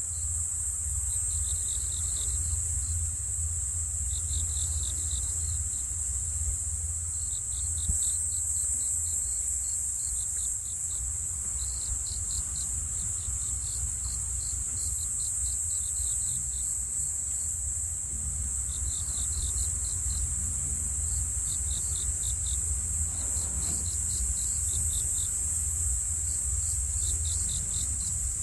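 Crickets chirping in repeated short pulsed bursts over a steady high-pitched insect drone, with a low rumble underneath.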